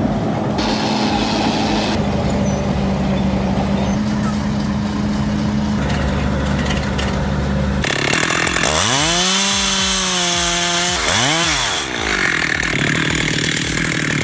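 A steady low engine drone that shifts abruptly every couple of seconds, then about eight seconds in a chainsaw revs up to full throttle and holds for a few seconds, drops off briefly, revs once more, and falls back to a low drone.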